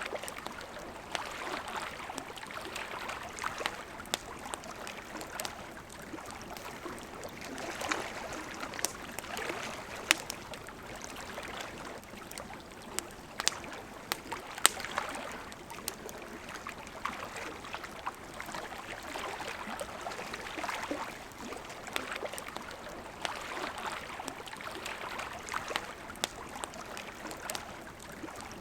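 River water running steadily, with a wood campfire crackling over it in frequent sharp pops and snaps. The loudest pops come about ten and fifteen seconds in.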